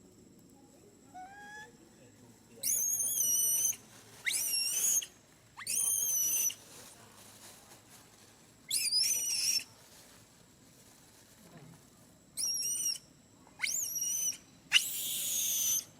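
Baby monkey crying: a run of about seven shrill, high-pitched squeals, each about a second long and rising sharply at the start, with short pauses between them and a fainter, lower squeal about a second in.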